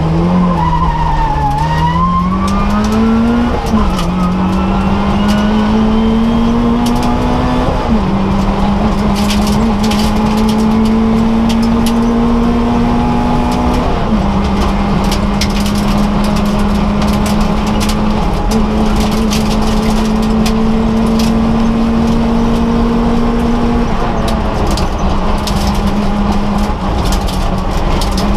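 Citroën AX rally car's four-cylinder petrol engine heard from inside the cabin, driven hard on a special stage: the revs climb, then the pitch drops sharply at each of about four gear changes before pulling up again. Scattered sharp ticks sound over the engine.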